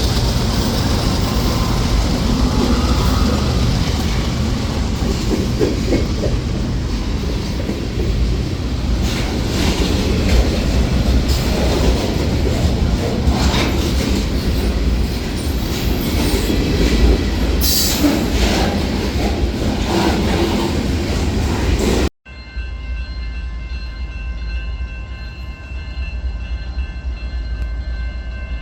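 A train passing close by, wheels rumbling and clicking over the rails. About 22 seconds in the sound cuts suddenly to quieter train noise with faint steady high tones.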